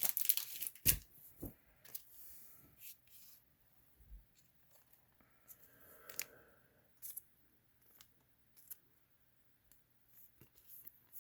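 Crinkling and rustling of trading cards and wax-pack packaging being handled, loudest in the first second, followed by scattered light taps and clicks.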